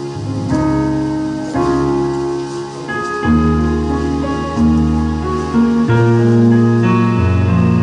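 Keyboard instrument, piano or organ-like, playing sustained chords with a moving bass line, the chords changing about every second.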